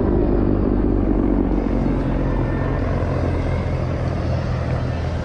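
CH-53 Super Stallion heavy-lift helicopter in flight: a loud, steady drone of rotor and turbine noise that eases slightly toward the end.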